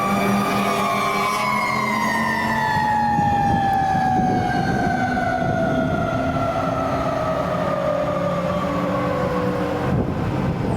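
Fire engine siren winding down in one long falling tone over about ten seconds, stopping suddenly near the end, over the rumble of the truck's engine.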